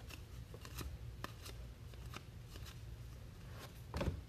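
Football trading cards being handled and slid against one another as a pack is sorted, with faint scattered clicks and rustles. There is a brief louder sound about four seconds in.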